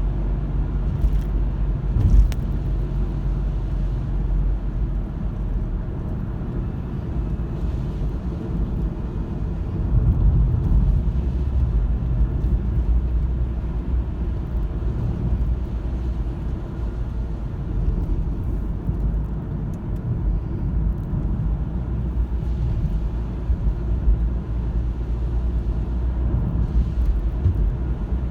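Steady low rumble of a car's engine and tyres heard from inside the cabin while driving, swelling slightly about ten seconds in.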